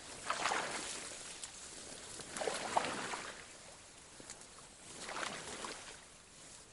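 Legs wading through knee-deep water, a slosh with each slow step, about three in all and roughly two and a half seconds apart.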